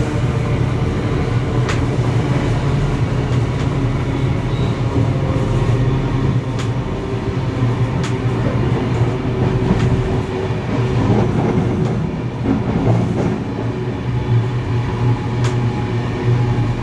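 Train running along the line: a steady low rumble of wheels on rails, with a few sharp clicks scattered through it.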